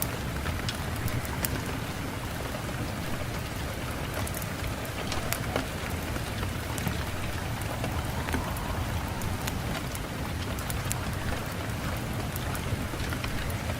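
Steady rain falling, with many individual drops landing as sharp scattered ticks over an even hiss and a low steady rumble.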